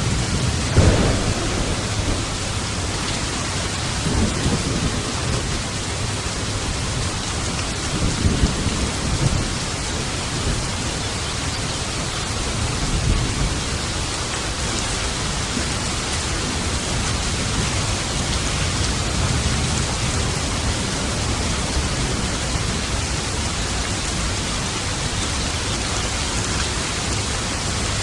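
Steady heavy rain during a thunderstorm, with rolling thunder. A sharp, loud thunderclap comes about a second in, and further rumbles follow a few seconds apart before the rain carries on alone.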